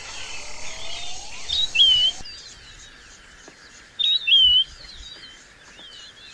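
Forest birds singing: a short, loud two-part call, a quick high note followed by a wavering whistle, repeated twice, over fainter chirps from other birds.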